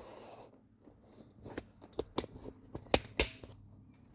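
Close handling noise: a series of light clicks and knocks as equipment is moved and adjusted, with two sharper clicks about three seconds in.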